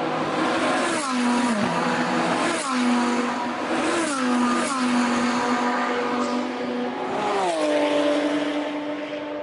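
World Rally car's 1.6-litre turbocharged four-cylinder engine running hard, its pitch dropping sharply about four times and holding steady in between, fading near the end.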